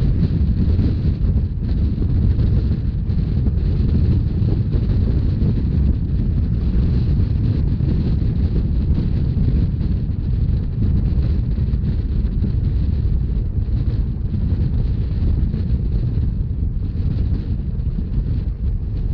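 Wind buffeting the microphone over the steady low rumble of a Rhaetian Railway narrow-gauge regional train running along the line.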